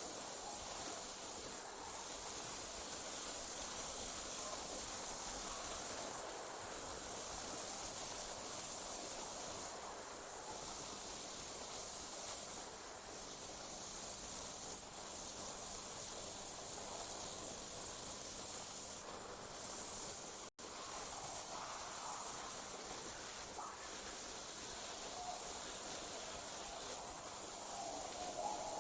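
Night insects, crickets, trilling in one continuous high-pitched chorus, broken by short pauses every few seconds and one very brief sudden dropout about two-thirds of the way through.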